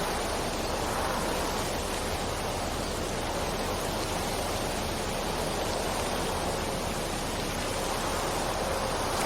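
Steady rain, a continuous even hiss of falling water.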